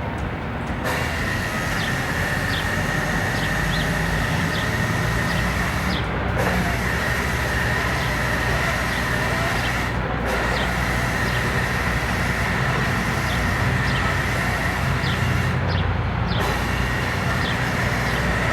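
A heavy machine's engine running steadily, with a steady high-pitched whine over a low rumble and faint ticks; the upper part of the sound briefly drops out three times.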